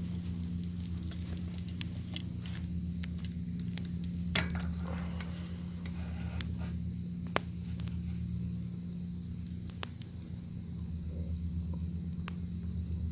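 Bacon sizzling over a crackling fire: a steady hiss with scattered sharp pops and crackles, the loudest pop a little past the middle, over a steady low rumble.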